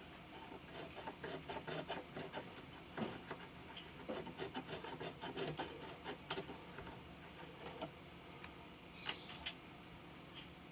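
Small hand tools being handled and set down: a run of light clicks and rattles for several seconds, then a few scattered clicks.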